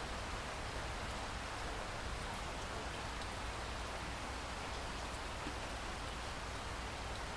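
Steady rain falling, an even hiss of drops with a low steady rumble underneath.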